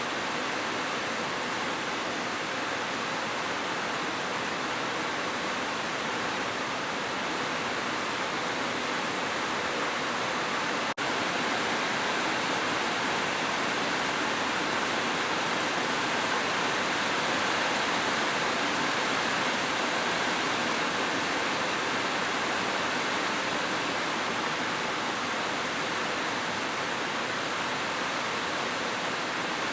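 Heavy rain falling steadily as an even, unbroken hiss, with a momentary dropout about eleven seconds in.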